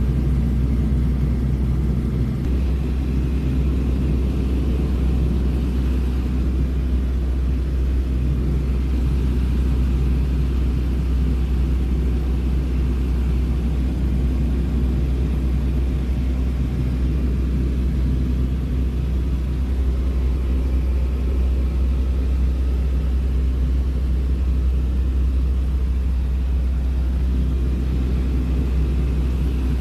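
Small propeller airplane's engine running in a steady, unbroken low drone.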